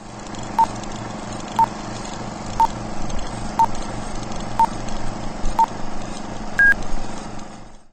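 Film countdown leader sound effect: a short beep once a second, six in a row, then a higher, slightly longer beep about six and a half seconds in, over a steady hum.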